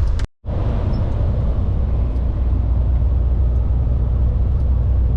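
Steady low rumble of a truck's diesel engine and road noise heard from inside the cab while driving at speed. The sound cuts out completely for an instant about a third of a second in.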